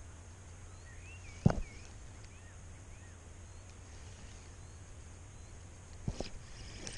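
A few small birds chirping in short, wavy, rising-and-falling notes over a steady low rumble, with one sharp thump about a second and a half in and a lighter knock near the end.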